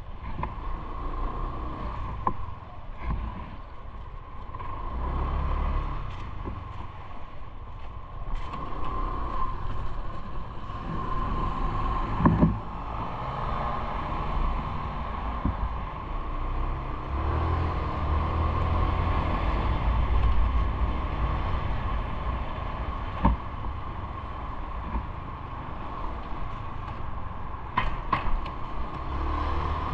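Road and traffic noise from a moving bike, with gusts of wind rumbling on the camera's microphone, a steady high hum throughout, and a few sharp knocks and rattles, the loudest about twelve seconds in.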